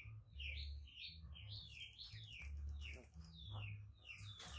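A bird chirping over and over in short, wavering high notes, with a low rumble underneath.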